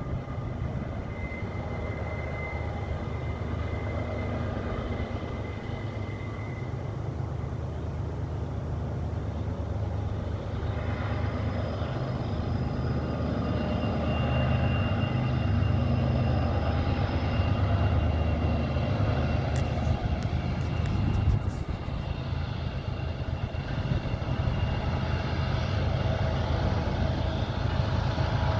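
Diesel locomotives of a BNSF freight train working up the grade: a steady low engine drone with faint high tones over it, growing louder about halfway through. A few brief clicks come about two-thirds of the way in.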